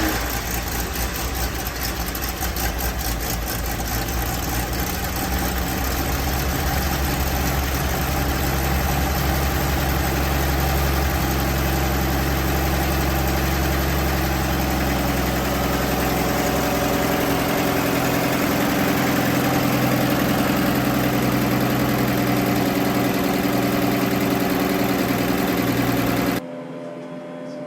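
1963 Ford Falcon engine idling steadily just after a cold start, then cutting off abruptly near the end.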